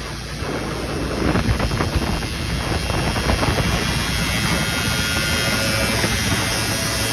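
Yamaha Snoscoot's swapped-in Arctic Cat 250cc two-stroke engine running. It picks up about a second in, then holds a steady pitch.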